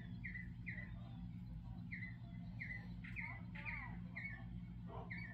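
A small bird chirping over and over in short falling notes, with a pause about a second in, over a steady low hum.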